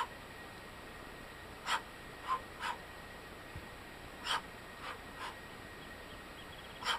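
Short, sharp breaths, about eight in all, coming at irregular intervals over a low steady background.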